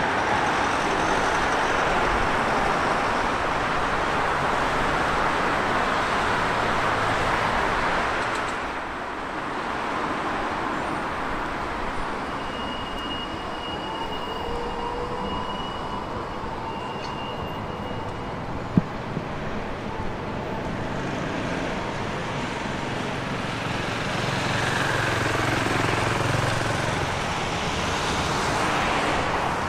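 Train moving through a station: a steady rumble and hiss of running gear that eases off about a third of the way in, with a thin high squeal for a few seconds in the middle and a single sharp click, then swells again near the end.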